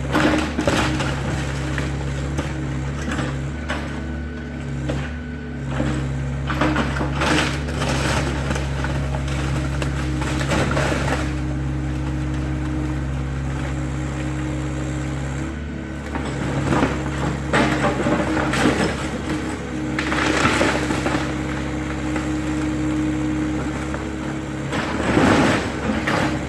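Excavator engine running steadily under load while the machine tears into a garage: repeated crunching and cracking of the structure breaking apart comes every few seconds over the engine's hum.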